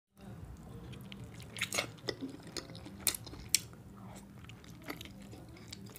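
Close-miked eating sounds: wet lip smacks, sharp mouth clicks and soft chewing as a halved hard-boiled egg is licked and bitten. A faint steady hum sits underneath.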